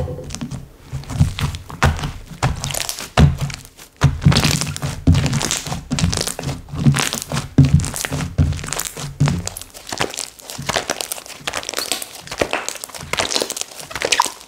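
Slime being squeezed and pressed by hand, with a dense run of crackling, popping clicks. Soft thumps come along with them for the first two thirds, and lighter crinkly clicks follow.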